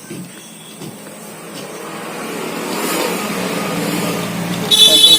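A motor vehicle's engine draws near, growing steadily louder over a few seconds, then a vehicle horn sounds loudly near the end.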